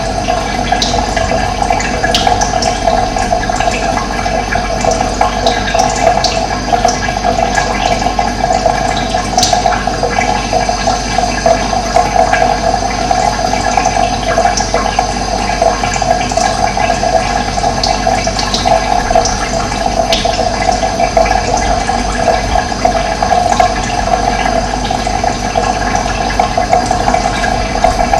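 Running water flowing steadily, an even rush centred in the middle of the range, with brief high-pitched ticks scattered through it.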